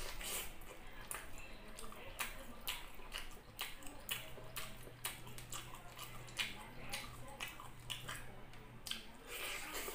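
Close-up eating sounds of a person biting and chewing a saucy chicken drumstick: many short, irregular wet clicks and smacks of the mouth and lips.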